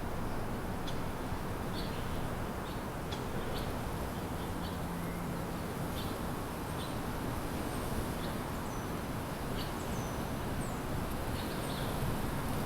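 Songbirds giving short, high chirps every second or so over a steady low background rumble of outdoor noise.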